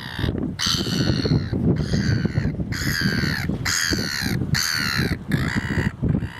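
Estuary birds giving about six harsh, raucous calls in a row, roughly one a second, over wind noise buffeting the microphone.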